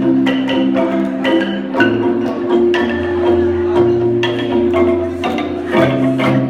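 Kolintang ensemble playing: wooden bars struck in a quick, even pattern over a sustained bass line, with the chord changing about two seconds in and again near the end.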